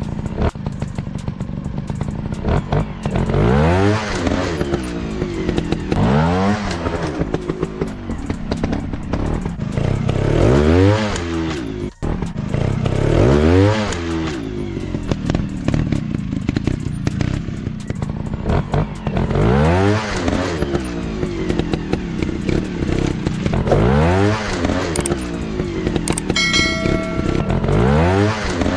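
Dirt bike engines revving up and dropping back again and again, a rise and fall every two to three seconds, with clattering knocks.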